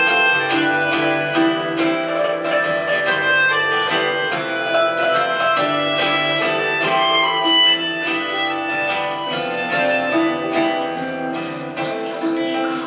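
Instrumental music led by guitar, with plucked notes in a steady rhythm and no singing.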